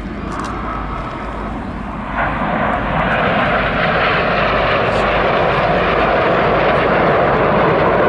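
Jet noise from a formation of Red Arrows BAE Hawk T1 jets flying by, a steady roar that swells suddenly about two seconds in and keeps getting louder.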